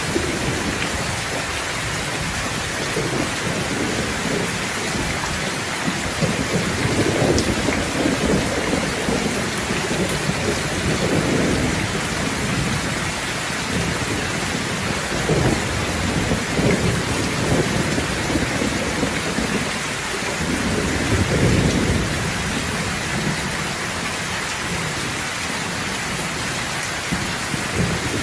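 Steady rain falling, with thunder rumbling several times underneath: long low swells about six to twelve seconds in, again around fifteen seconds, and strongest around twenty-one seconds.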